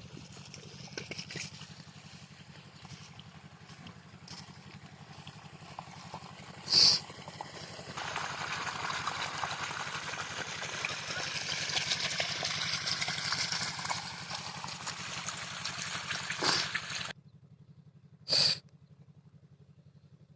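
8 HP single-cylinder diesel water-pump engine running steadily with a fast, even firing beat. Water gushes from the pump outlet through the middle stretch and stops abruptly. Three short, loud, high-pitched sounds cut through, the last near the end.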